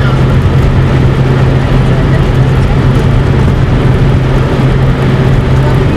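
Steady loud engine noise with a constant low hum and rushing noise.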